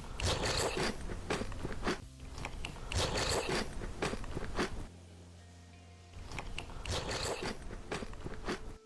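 Crunchy food being bitten and chewed close to the microphone, loud crackling crunches in three spells with short pauses between.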